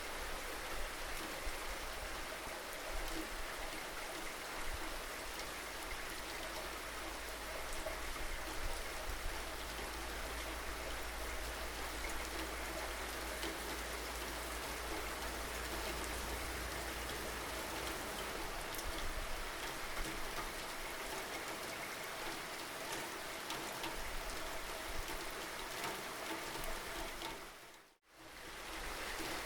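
Steady rain falling, with the patter of individual drops over an even hiss. A low rumble underneath fades away about two-thirds of the way through. Near the end the rain dips briefly to silence and comes back.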